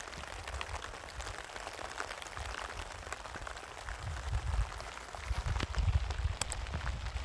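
Rain falling: a steady hiss with many scattered drop ticks, and a low rumble that grows stronger in the second half.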